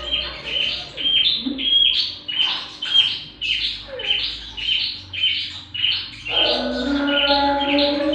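Small songbird calling a fast run of short, high chirps, about two a second. A low steady tone joins about six seconds in.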